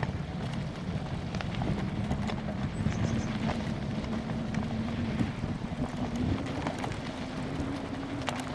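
Riding noise picked up by a camera mounted on a bike on a dirt trail: wind buffeting the microphone and tyre rumble, with scattered rattling clicks and knocks and a faint hum that slowly rises in pitch.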